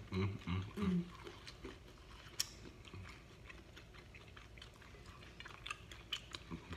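People chewing Thai food (noodles and egg rolls) close to the microphone: wet mouth sounds and scattered small clicks, one sharper click about two and a half seconds in. A few short low hums in the first second.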